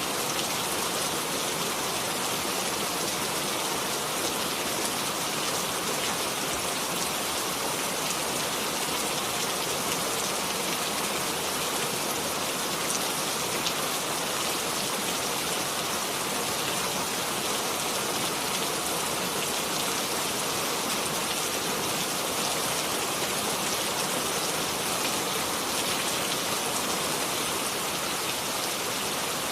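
Steady rain falling, an even hiss of many fine drops pattering on surfaces.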